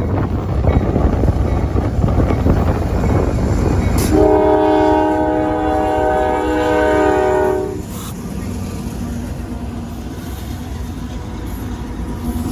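Diesel locomotive air horn sounding one long blast of several tones at once, starting about four seconds in, lasting nearly four seconds and cutting off sharply. A low rumble runs under it, louder before the horn.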